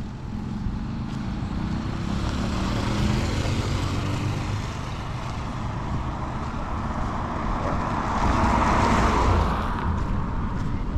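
Motor vehicle engine running with road noise, its engine note rising a little around two to four seconds in; a louder rushing swell builds about eight seconds in and fades near the end.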